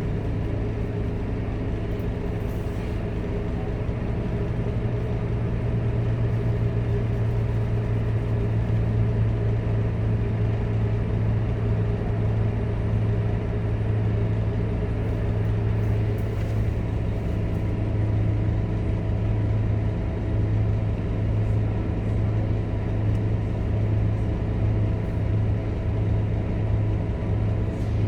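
Scania K230UB Euro V bus running on the road with a steady low engine drone and road noise, getting slightly louder about four seconds in.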